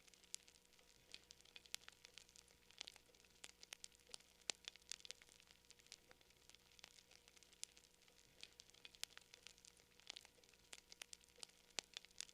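Wood fire crackling: quiet, irregular sharp pops and snaps, several a second, over a faint hiss.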